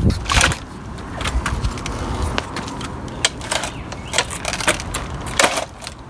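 Irregular plastic clicks and knocks with some rustling as a Dyson DC24 upright vacuum is tipped back and its ball body handled. A low rumble under the clicks stops about two seconds in.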